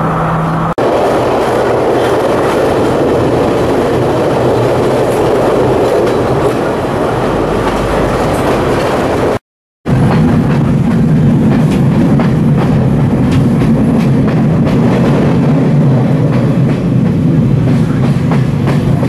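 Passenger train running along the track, heard from beside an open carriage window: a steady, loud running noise of the wheels and carriage. The sound cuts out for a moment about halfway through, then comes back lower-pitched.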